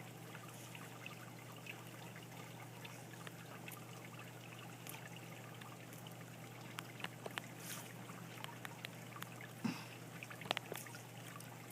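Light rain trickling and dripping, with scattered faint drips and a couple of slightly louder short sounds near the end.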